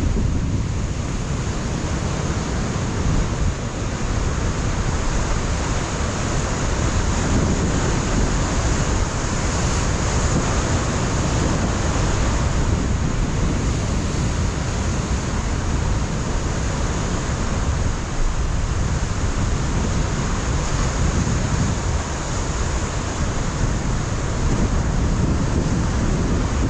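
Ocean surf breaking and washing against a rocky shore, a continuous rush with slow swells in strength, mixed with wind buffeting the microphone as a steady low rumble.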